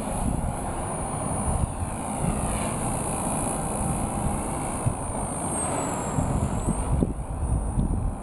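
Small electric RC helicopter with a three-blade rotor and brushless motor in flight: a thin, high motor and rotor whine that wavers in pitch and dips lower about six seconds in, over a low, noisy rumble.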